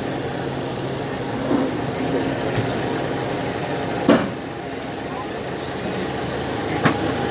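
Truck engine idling steadily, with a sharp metallic knock about four seconds in and a lighter one near the end.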